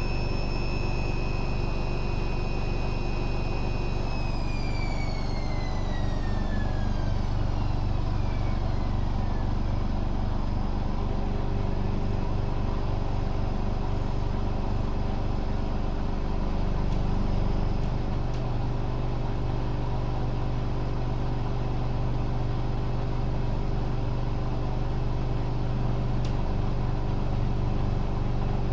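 Hoover Dynamic Next washing machine on a spin cycle: a high motor whine over the steady rumble of the spinning drum holds level, then falls away from about four seconds in as the drum slows, leaving the low rumble of the drum turning. Near the end the whine begins to rise again as the spin speeds back up.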